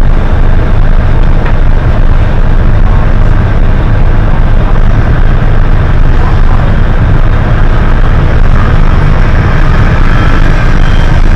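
Hino HS8JRVL-UTF city bus heard from inside the cabin while under way: a loud, steady low engine rumble mixed with road noise.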